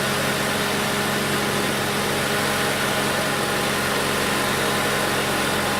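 2008 Ford Escape Hybrid running with its air conditioning switched on: a steady hum under an even rush of blower-fan air, unchanging throughout.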